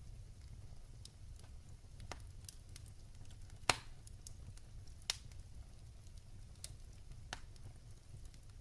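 Firewood burning in a wood fireplace: scattered crackles and sharp pops over a low rumble. The loudest pop comes about three and a half seconds in, with another about five seconds in.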